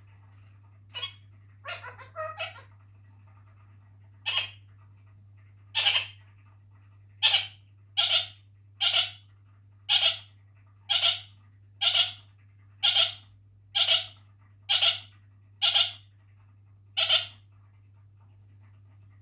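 Kakariki (red-crowned parakeet) calling: short, sharp, repeated calls. They come scattered at first, then settle into a steady run of about one call a second before stopping near the end. A low steady hum runs underneath.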